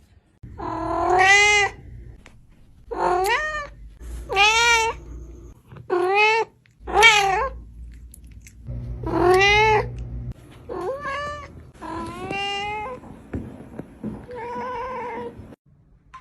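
A cat meowing loudly and insistently: about nine long, drawn-out calls in a row, each rising then falling in pitch, with short gaps between them.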